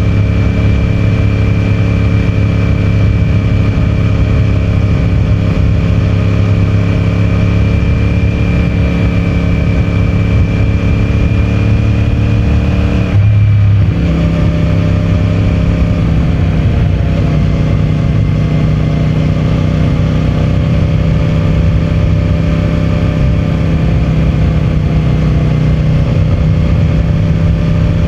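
CFMOTO 450MT's 449 cc parallel-twin engine running steadily at cruise through its stock exhaust, with one brief break in the engine note about halfway through.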